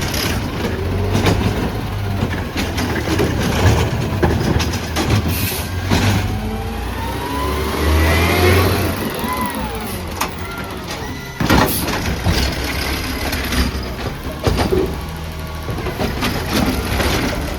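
Automated side-loader garbage truck working: its diesel engine runs steadily while a whine rises and falls around the middle, and several loud clanks and bangs are heard, the sharpest about two-thirds of the way through.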